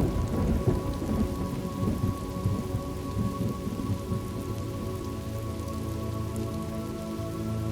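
Steady rain with a clap of thunder right at the start that rolls off into low rumbling over the next few seconds.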